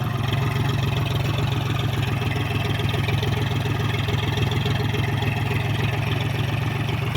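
John Deere 5045 D tractor's three-cylinder diesel engine running steadily.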